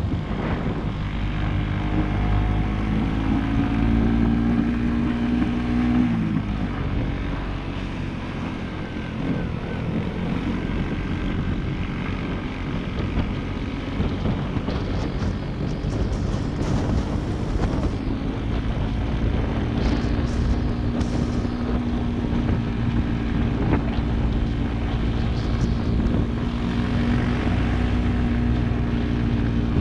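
Suzuki GSX-S150's single-cylinder four-stroke engine running on the move. Its note climbs as it revs up from about two to six seconds in, drops back, and then settles into a steady drone near the end.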